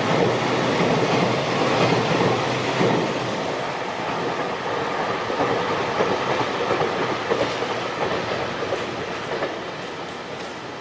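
Wagons of a passing JR Freight container train running over the rails, the rolling noise fading steadily as the last wagons pull away.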